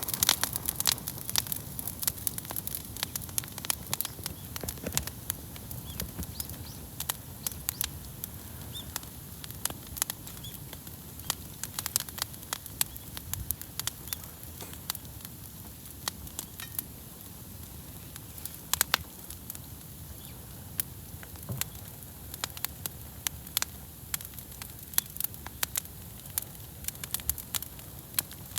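Wood bonfire crackling, with irregular sharp snaps and pops over a steady low hiss.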